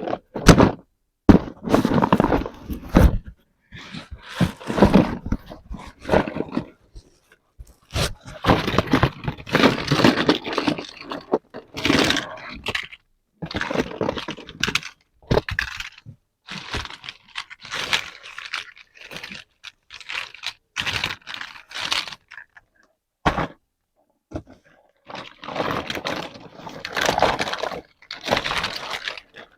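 Toy packaging being handled and opened: plastic and cardboard crackling, scraping and knocking in irregular bursts with short pauses between them.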